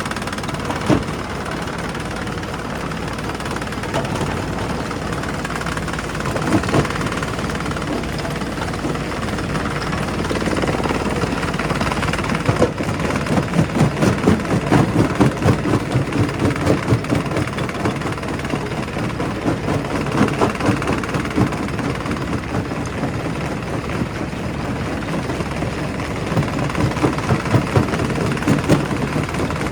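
Primary rock crusher running under load: a steady machine noise with spells of rapid knocking and cracking as rock is broken, heaviest a little before halfway and again near the end.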